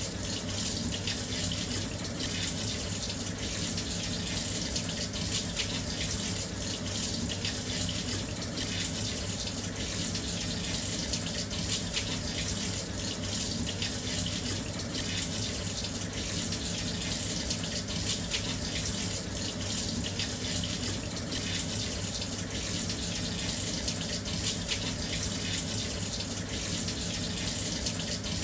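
Washing machine drum filling with water from its inlet: a steady, even rush of running water.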